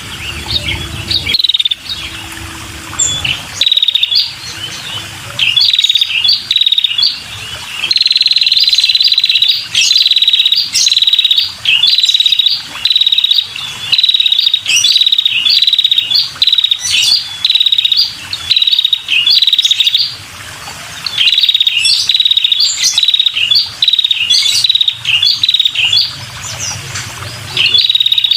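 Female red-headed prenjak calling in repeated bouts of fast, buzzy, high trills, broken by short sharp higher chips.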